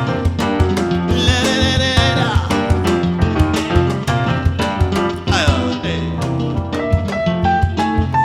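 Live band playing an instrumental break of a song: a steady drum beat under the band, with a lead instrument playing phrases that bend in pitch and, near the end, a line that climbs note by note.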